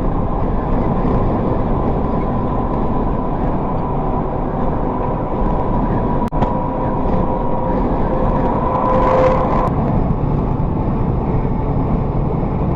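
Steady road and engine noise of a moving vehicle picked up by a dashcam, a dense low rumble with a faint steady whine. There is a short break about six seconds in.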